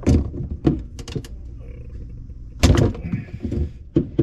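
Knocks and clunks of PVC drain pipe and fittings being worked into place under a sink, in a few irregular bunches with the loudest near the end.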